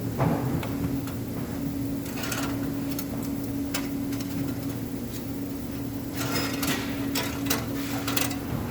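A steady machine hum with short bursts of clicking and clatter, several of them close together in the second half.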